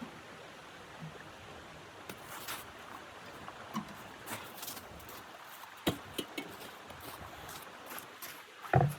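Scattered faint clicks and crackles at irregular intervals over a low hiss, with one louder short knock near the end.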